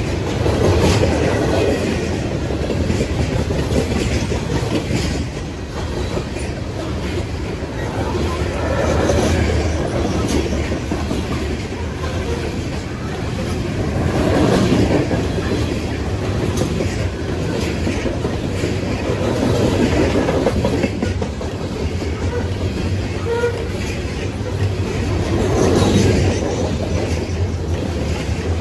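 CSX freight train's open-top hopper cars rolling past close by: a steady rumble of steel wheels on rail with clickety-clack and repeated clicks as the trucks cross the rail joints, the level rising and falling every few seconds.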